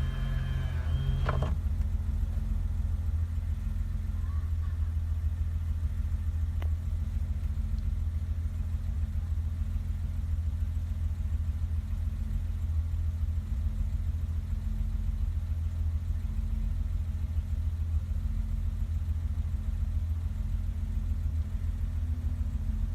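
BMW 325's straight-six engine idling steadily while warming up from a cold start. A power window motor whirs briefly and stops about a second and a half in.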